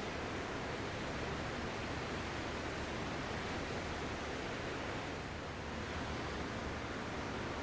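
Ocean surf as a steady, even wash of noise, easing slightly about five seconds in.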